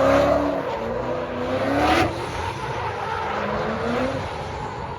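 Drift cars' engines revving, their pitch rising and falling, over loud tire and exhaust noise. There is a sharp peak about two seconds in, then the sound eases off.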